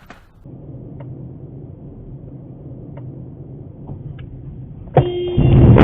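Steady low hum of a car driving, heard from inside. About five seconds in, a car horn starts suddenly, loud and steady, with a rough loud noise under it for about a second.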